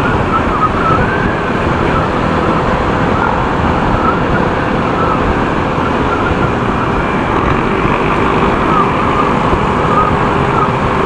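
Motorcycle riding in traffic: a steady rush of wind and road noise over the running engine, with a faint wavering high tone in the background.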